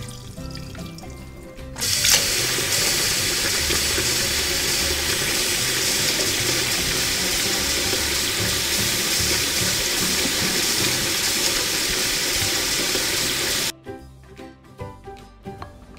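Chili spice paste for ayam bakar taliwang sizzling in hot oil in a miniature wok as it is stirred with a small wooden spatula. The sizzle starts about two seconds in, holds steady, and cuts off suddenly near the end.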